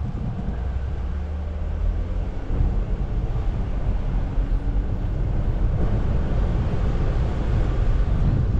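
Jeep Wrangler running on an off-road trail: a low, steady engine drone for the first couple of seconds, then a rougher rumble with noise from the drive.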